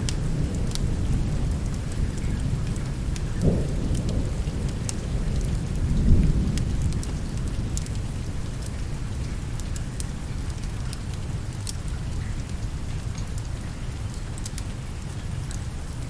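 Steady rain with low rolling thunder, the rumble swelling about three and a half and six seconds in, then easing off. Scattered sharp clicks sound throughout.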